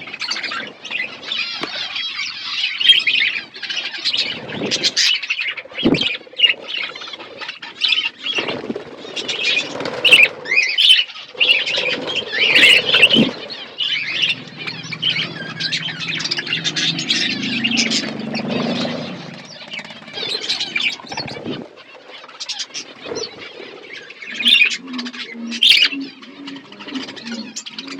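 Pet budgerigars chirping and chattering continuously, with short flutters of wings and clicks among the calls.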